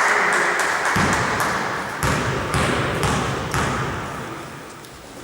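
A few sharp thumps ring out in a large hall over a steady crowd hum that fades toward the end.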